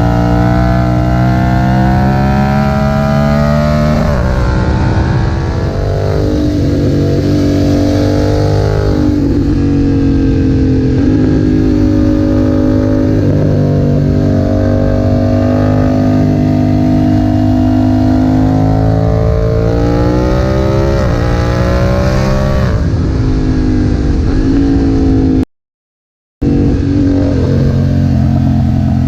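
BMW F900R's parallel-twin engine through a Leo Vince aftermarket exhaust, pulling hard. Its pitch climbs and drops sharply again and again at gear changes or throttle roll-offs, with steadier stretches in between. The sound cuts out completely for about a second near the end.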